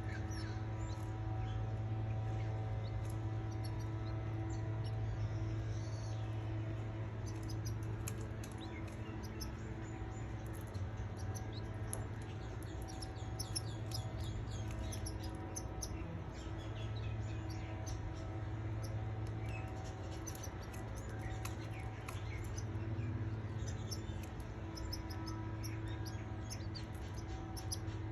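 Canaries chirping, with many short high cheeps scattered throughout, over a steady low hum.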